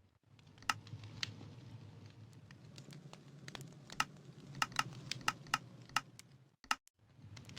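Wood campfire crackling, with irregular sharp pops over a low steady rumble of burning. The sound cuts out briefly near the end.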